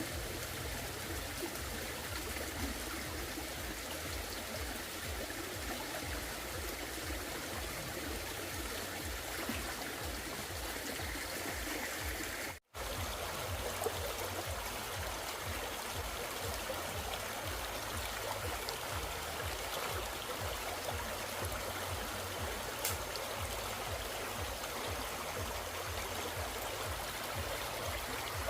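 Steady rush of running water, like a stream, with a low rumble underneath. It cuts out for an instant about halfway through.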